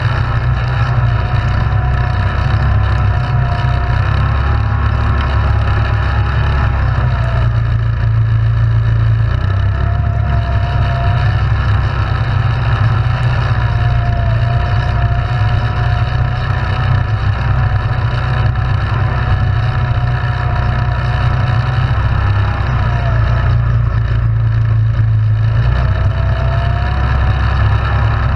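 ATV engine running steadily under way, with a whining tone that wavers in pitch and drops away briefly twice as the throttle eases off.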